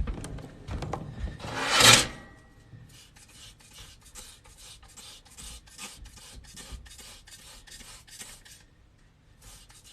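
Cleaning of an air-conditioner condensate drain pan, working the sediment toward the trap. There is a loud spray hiss about two seconds in, then a run of short rasping strokes, about two a second.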